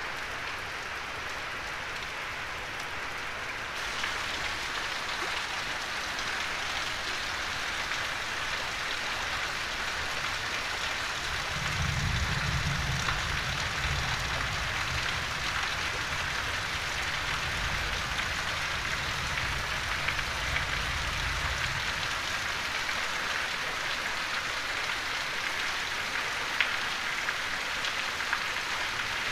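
Steady heavy rain falling on roofs and a flooded yard. A low rumble joins in for about ten seconds in the middle.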